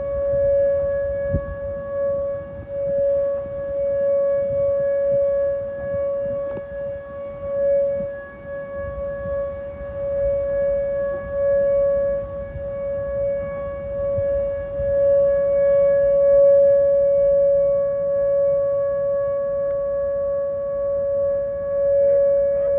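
Duluth's outdoor tornado warning siren sounding a loud, steady tone at one unchanging pitch during its monthly test, with a low rumble underneath.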